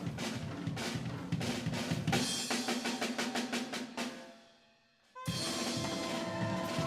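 Drum kit playing fast strokes that speed up into a roll and die away about four seconds in. After a brief near-silent gap, a band comes in with sustained chords.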